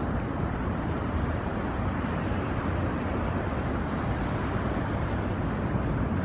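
Steady roar of the rushing water of Niagara Falls.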